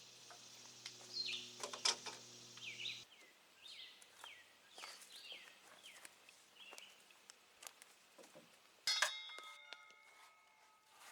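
A bird calling in a run of short, falling chirps, over a low steady hum that cuts off about three seconds in. Near the end comes a sudden clank with a fading metallic ring.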